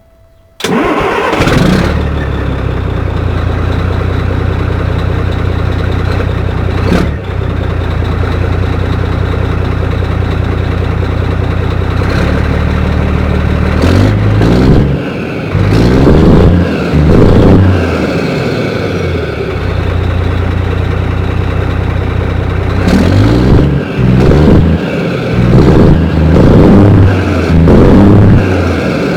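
Volvo FH12 truck's 12-litre straight-six diesel cranking and catching about half a second in, then idling steadily. In the second half it is revved in a series of quick blips, the pitch rising and falling, in two groups.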